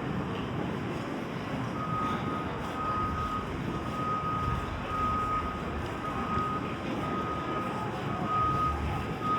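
Vehicle reversing alarm beeping about once a second, each beep a single steady tone about half a second long, starting about two seconds in, over a steady rumble of street traffic.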